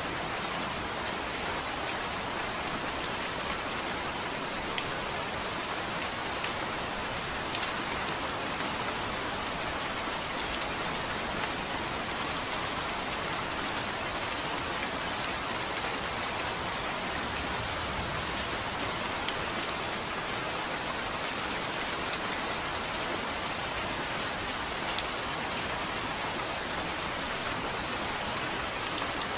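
Steady rain falling on a surface, with individual drops ticking now and then.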